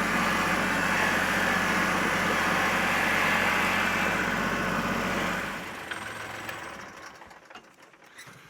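An engine idling steadily. It stops about five and a half seconds in, leaving only faint clicks.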